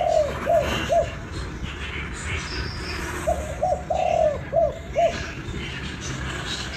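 Spotted dove cooing in short phrases. A few coos end the first phrase right at the start. A few seconds in comes a second phrase of about six coos, with one longer drawn-out coo in its middle.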